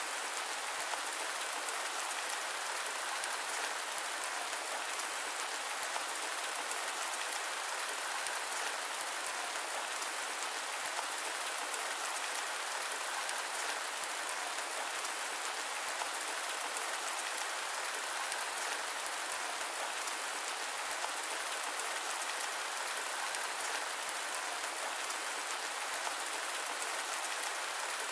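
Steady rain falling: an even, unchanging hiss dotted with many fine drop ticks.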